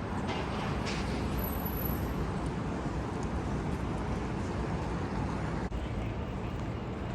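Steady outdoor city background noise: a low, even rumble of traffic with no distinct events.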